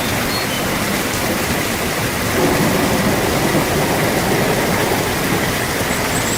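Steady rain, a continuous even hiss, with the low end swelling a little louder for about a second and a half a couple of seconds in.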